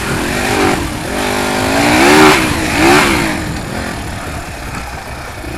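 Dirt bike engine revving up and down several times in quick succession as it is ridden off-road, then running more evenly and quieter over the last couple of seconds.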